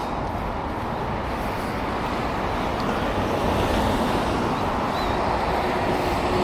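Steady rushing noise of wind on the camera microphone and road noise while riding a bicycle.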